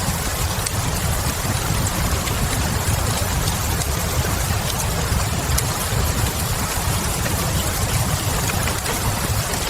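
Steady rain mixed with a fireplace's low steady rumble, with small crackling pops of burning wood scattered through it.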